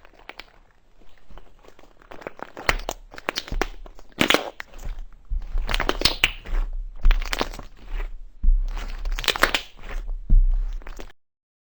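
Crunchy slime being squeezed and pressed by hand, giving dense crackling and crunching in repeated squeezes that grow louder after the first few seconds, then cut off abruptly near the end.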